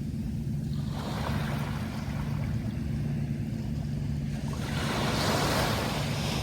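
Sea waves breaking and washing in twice: a smaller wash about a second in, then a louder one near the end. A steady low rumble runs underneath.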